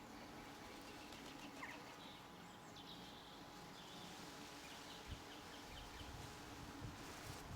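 Faint garden birds: a few short, scattered chirps over a steady low background noise, with a soft low thump about five seconds in.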